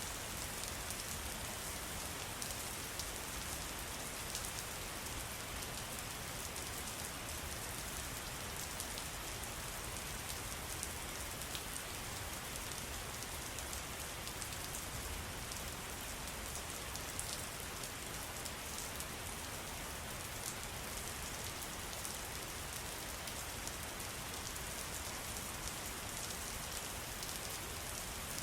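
Steady, dense patter of falling water drops, with many fine ticks, even and unchanging throughout.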